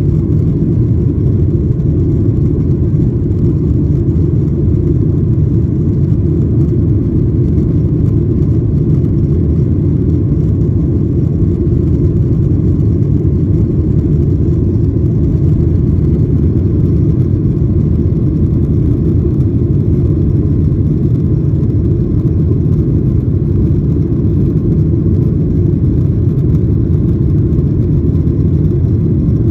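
Steady low rumble of engine and airflow noise inside the cabin of a Boeing 737-900ER, even throughout with no change in pitch.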